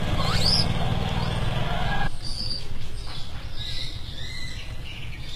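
A low steady engine-like drone stops abruptly about two seconds in, leaving quieter outdoor ambience. Small birds chirp with short, high calls, a rising whistle near the start and several brief chirps later.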